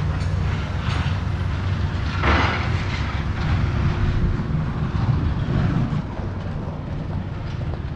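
A steady low engine rumble, with a brief louder hiss about two seconds in.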